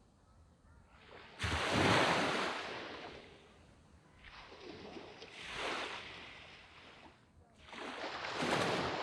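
Waves breaking on a sand beach, three in turn. The first, about a second and a half in, starts suddenly and is the loudest; the other two swell and fade.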